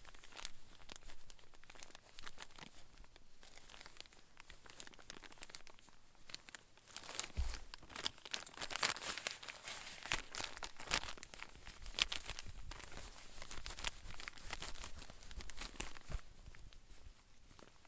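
Crinkling, crackling handling noises: a scatter of sharp clicks and rustles that gets busier about seven seconds in, with a single low thump at that point.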